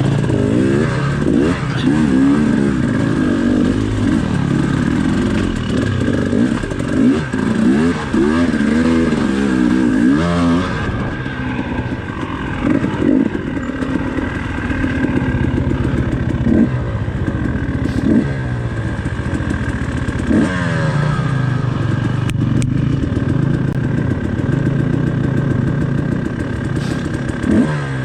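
Dirt bike engine revving up and down over and over in quick throttle blips through the first ten seconds or so, then running lower and steadier with a few sharp rises in revs.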